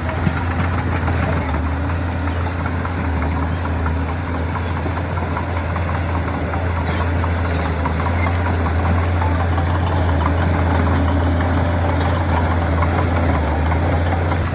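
Heavy diesel engine of earthmoving machinery running steadily at an even pitch, with a strong low hum.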